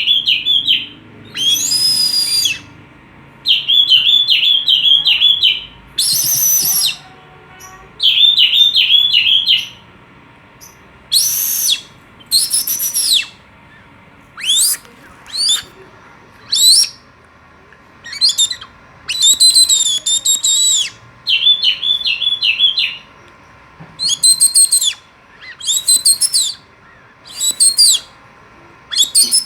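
Oriental magpie-robin (kacer) singing phrase after phrase: runs of quick, repeated chirps alternating with loud whistles that rise and fall, with short pauses between phrases.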